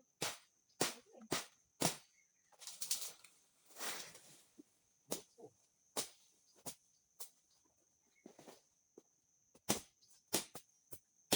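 Irregular sharp cracks and snaps with a couple of longer rustling swishes, as brush and branches are cut and cleared by hand, over a steady high-pitched insect drone.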